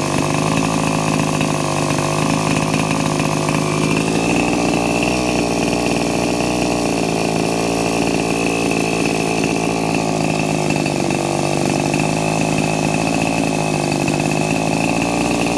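Small glow-fuel engine of a Kalt Baron RC helicopter, running steadily on a test run with a buzzing note. Its tone shifts slightly about four seconds in.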